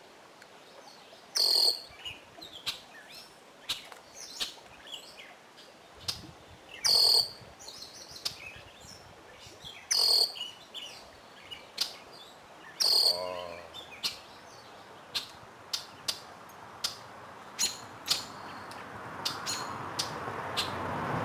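Songbirds calling and singing, with a loud short call repeated about every three seconds among many fainter chips. A rushing noise builds toward the end.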